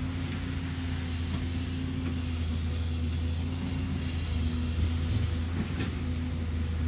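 Caterpillar excavator's diesel engine running steadily with a low drone, with a few faint clicks over it.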